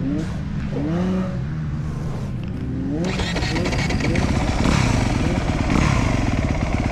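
Four-stroke motocross bike engine revved in several short rising blips, then pulling away under throttle about three seconds in, getting louder with a rushing noise over it.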